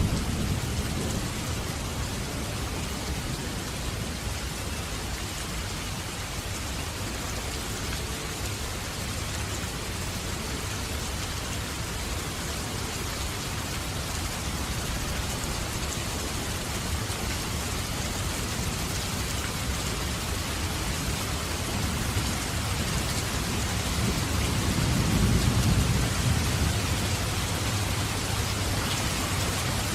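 Steady heavy rain pouring down, with a low roll of thunder that swells and fades away near the end.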